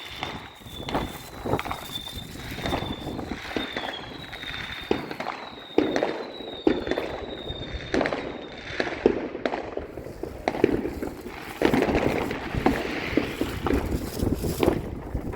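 Fireworks going off in a display: many sharp bangs and cracks, coming thicker in the second half. A high thin tone sounds in short repeated pieces through the first half.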